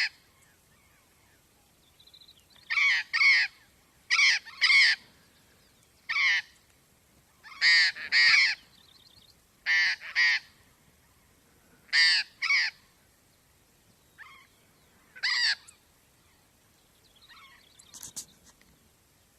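Steller's jay giving harsh, raspy calls, mostly in quick pairs, repeated every second or two.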